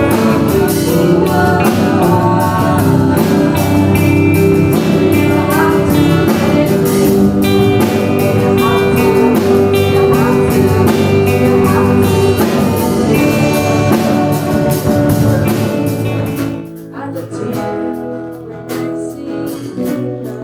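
Band music with a singer, guitar and drum kit; about three quarters of the way through it drops to a quieter, sparser passage.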